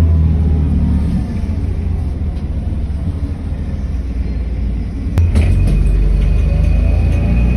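City bus engine running with a deep rumble, its note falling as the bus slows and rising again near the end as it pulls away. About five seconds in there is a sharp click, followed by a steady high-pitched tone.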